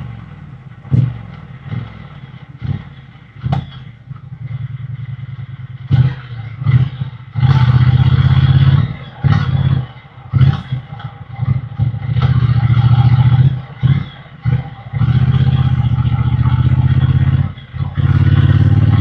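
Triumph Bonneville T120's 1200 cc parallel-twin engine and exhaust while riding. There are a few short throttle blips in the first few seconds, then several longer pulls under throttle with brief drops between them.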